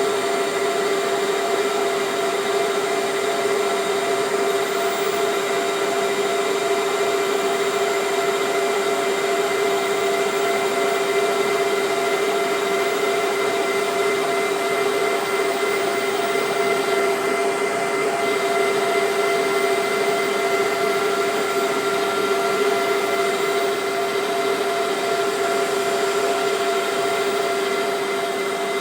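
CK6156 CNC lathe running: a steady machine whine over an even hiss, unchanging throughout.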